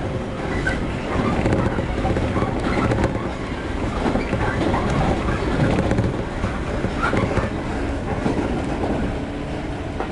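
Steady running noise heard inside the car of a JR 115-series electric train moving at speed: wheels on the rails and the car body rattling.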